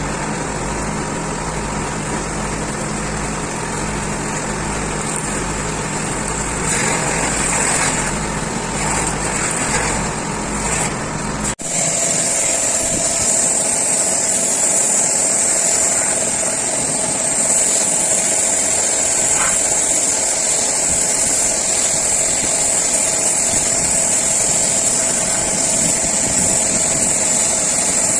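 Steady machine noise: a low, even hum for the first part, then, after an abrupt cut just under halfway, a steady high hiss with a constant whine under it.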